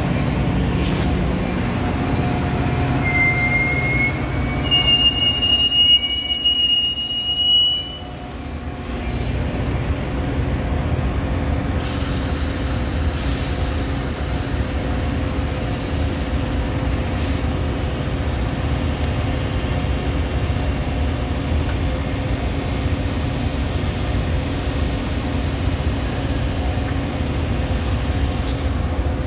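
A train rolling past with a steady rumble. From about three to eight seconds in, its steel wheels squeal in a high, thin tone that steps up in pitch, then stops. A hiss comes in about twelve seconds in and fades a few seconds later.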